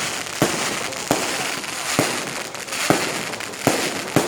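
Fireworks going off: about six sharp bangs, roughly one a second, over a continuous crackling hiss.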